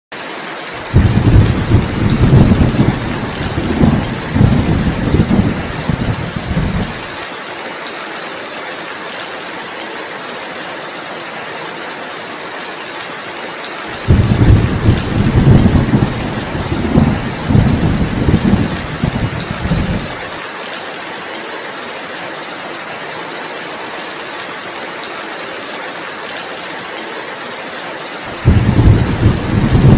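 Steady heavy rain with rolls of thunder rumbling low. The thunder comes three times: about a second in, about halfway through, and again near the end.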